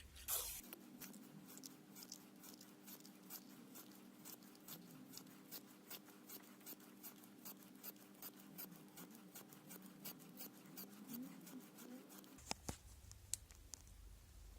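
Faint handling sounds: a short rustle at the start, then soft, evenly spaced clicks at about three a second over a faint steady hum, with a couple of sharper clicks near the end.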